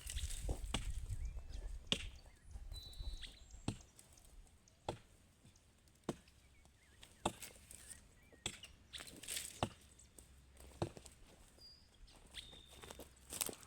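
Chopping blows of a hand tool into wood, roughly one sharp strike every second or so, as a tree or branch is cut down.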